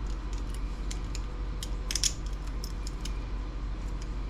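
Small metal clicks and rattles of the docking station's key lock being worked by hand, a cluster of sharper clicks about two seconds in, without the lock catching.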